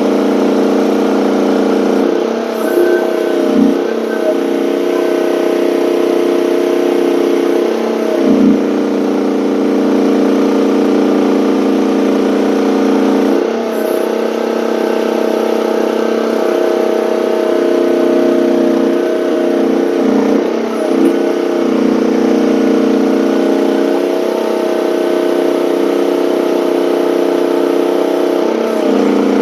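Gasoline engine of a one-ton mini excavator running loud and steady, with brief dips in pitch every few seconds as it works.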